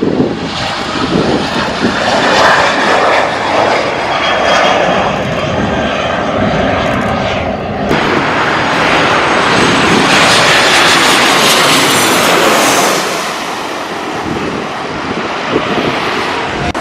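Jet airliner taking off close by: loud, continuous engine roar with a high whine, loudest a little past the middle and easing near the end.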